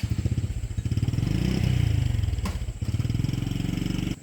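Tractor engine running with a fast, even beat, revving up and back down about a second in, then running steady until it cuts off suddenly.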